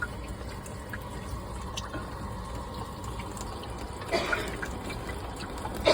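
Leaking faucet: a steady trickle with faint drips of water falling into a bucket, and one short louder sound about four seconds in.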